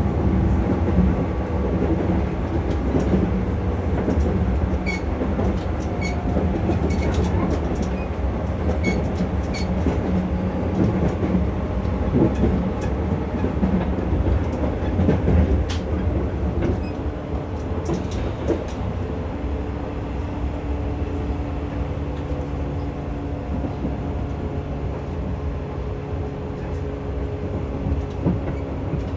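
JR West 115 series resistance-control electric multiple unit running, heard from inside the car: a steady rumble of wheels on rail and traction motor hum, with a few sharp ticks in the first third. The noise eases slightly from a little past halfway, leaving a steadier low hum.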